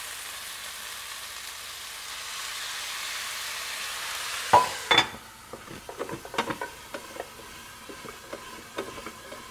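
Chicken wings sizzling in hot oil in a frying pan, a steady hiss. About four and a half seconds in, a glass lid is set on the pan with two sharp clinks, after which the sizzle is muffled and quieter, with light knocks as the covered pan and lid are handled.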